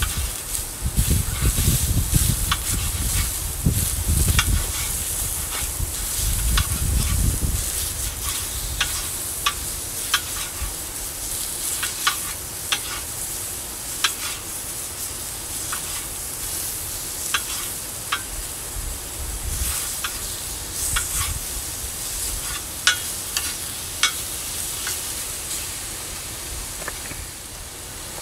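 Chicken and diced potatoes sizzling on a hot propane skottle griddle, a steady frying hiss. Repeated sharp clicks and scrapes come from a metal utensil chopping the chicken against the steel pan. A low rumble runs under the first seven seconds or so.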